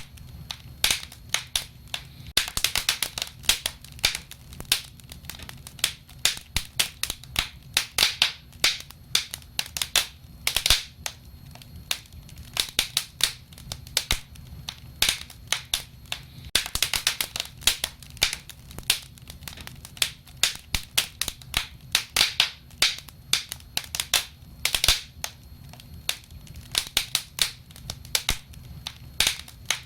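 Wood fire crackling: a dense, irregular run of sharp pops and snaps, coming in clusters, over a low steady rumble.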